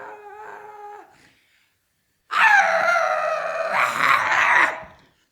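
A short, faint pitched voice sound near the start, then, after a pause, a loud, rough drawn-out vocal cry lasting about two and a half seconds.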